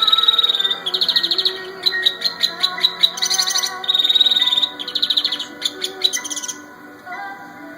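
Domestic canary singing: a run of fast trills and rapidly repeated notes, with a few longer rolling phrases, over background music. The bird stops about six and a half seconds in, leaving the music.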